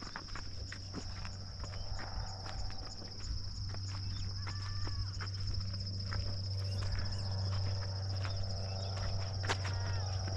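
A steady, high-pitched insect chorus trilling throughout, over footsteps on a path and a low steady hum, with a few short chirps about four and a half seconds in and near the end.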